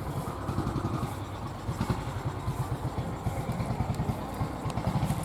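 A vehicle engine running, a rapid, even low pulsing.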